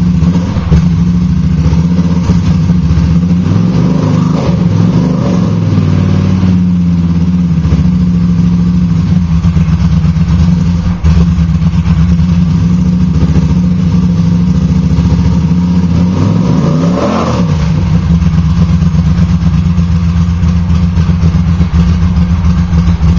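Honda CX500 V-twin running loud with no exhaust pipes or mufflers, just started from very cold, at a steady idle. Its pitch lifts and drops with two small throttle blips about four to five seconds in and a bigger rev that rises and falls about seventeen seconds in.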